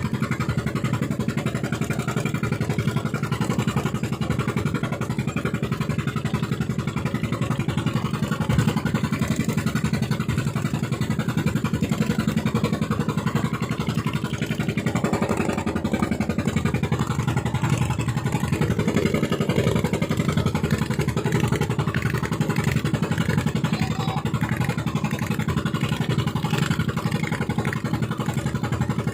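Fishing boat's engine running steadily and loudly, a continuous rapid chugging with no pauses.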